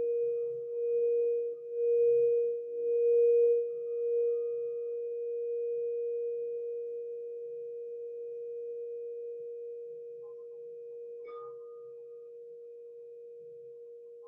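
Singing bowl ringing with one steady low tone that swells and ebbs about once a second for the first few seconds, then slowly fades. A brief, fainter higher ring sounds about eleven seconds in.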